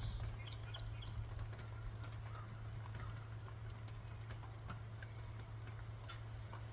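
Faint outdoor background: a steady low hum with scattered light clicks and a few brief, faint chirps.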